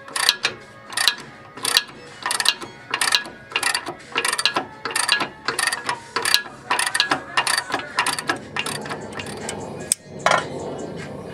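Hand socket ratchet clicking through repeated back-and-forth strokes, about one and a half a second, undoing the top nut of the sway bar link. The clicks come quicker and closer together near the end.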